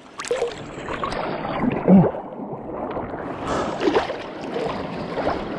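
Seawater sloshing and splashing around a person wading in chest-deep surf, with two short grunts, about two and four seconds in.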